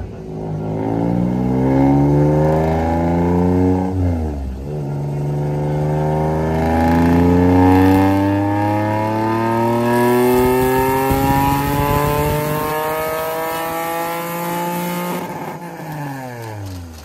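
A car engine accelerating hard: its pitch climbs for about three and a half seconds, drops at a gear change, then climbs steadily for about ten seconds through the next gear before falling away near the end as the car backs off.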